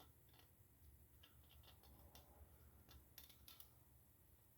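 Near silence: faint room tone with a low hum and a scatter of light, irregular clicks and ticks.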